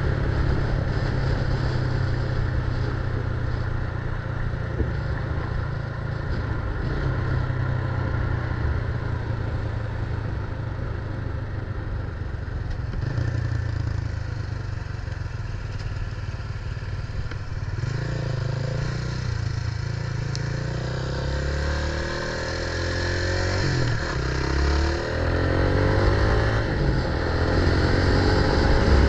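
Motor vehicle engine running while riding, rising and falling in pitch as it revs in the second half, over a steady low rumble of wind on the microphone.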